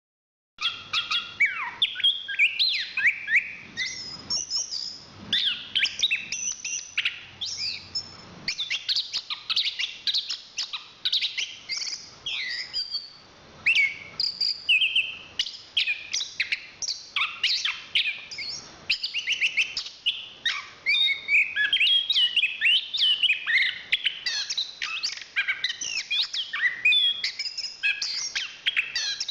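Chestnut-capped thrush (anis kembang) singing a fast, unbroken stream of varied high notes and sweeping phrases, starting after a brief silence at the very beginning.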